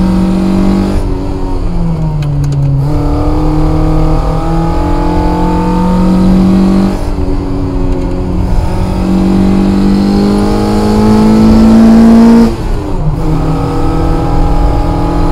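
Toyota 4A-GE twin-cam four-cylinder engine heard from inside the cabin, driven hard: the revs climb and drop several times, the longest climb ending in a sudden drop near the end.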